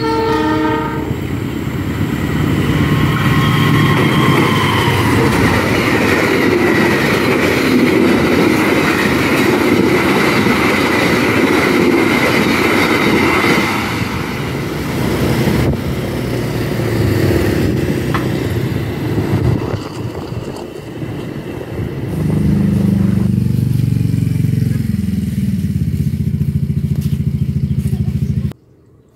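Passenger train passing over a level crossing: a long, loud, steady rumble of wheels on the rails, with a brief pitched tone at the very start. Near the end a lower, wavering engine sound takes over before the sound cuts off suddenly.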